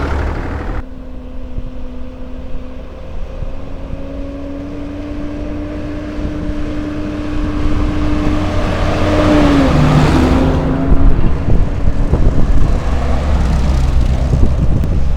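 Engine running, most likely a vintage tractor's. Its tone climbs slowly, then drops away about ten seconds in, and the sound grows louder toward the end.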